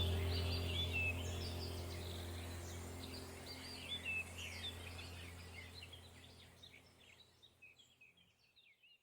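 Small songbirds chirping and trilling over a steady low drone, the whole track fading out gradually and gone by the end.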